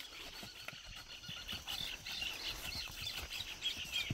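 Birds chirping in quick, repeated high notes, with faint low knocks underneath.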